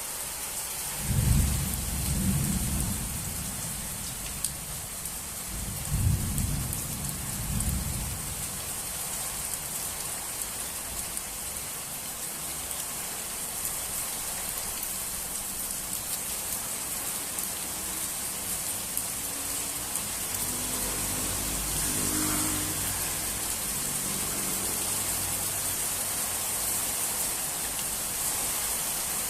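Steady rain falling, a constant hiss, with thunder rumbling twice in the first eight seconds. A longer, softer low rumble builds and fades about twenty seconds in.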